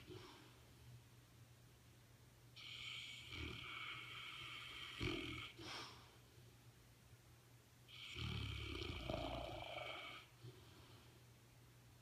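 Dogue de Bordeaux (French Mastiff) snoring in its sleep: two long snores, each about three seconds, about five seconds apart.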